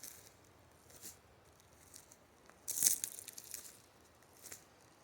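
Faint, scattered rustling crackles, a few short ones and a louder burst about three seconds in.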